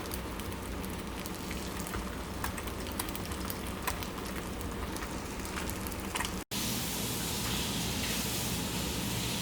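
Steady background noise full of small scattered clicks and ticks, which cuts off abruptly about six and a half seconds in and gives way to a different, hissier steady noise.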